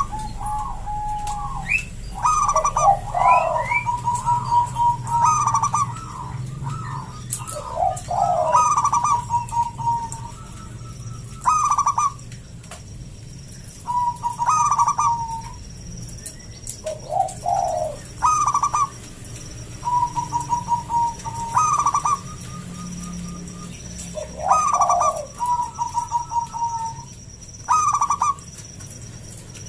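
Local zebra dove (perkutut) singing, a thick, deep-voiced bird in full song. It repeats its cooing phrase every two to three seconds: a few quick notes that run into a held, pulsing coo.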